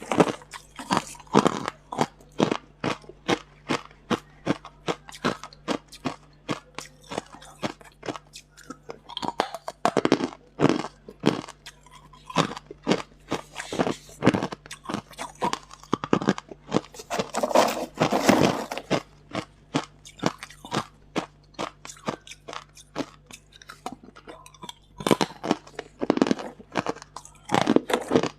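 Close-miked crunching of hard ice being bitten and chewed: rapid, irregular sharp crunches, several a second, with heavier bursts of cracking now and then.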